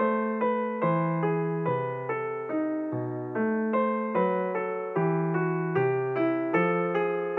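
Background music: a piano playing a steady run of notes, a little over two a second, over changing bass notes.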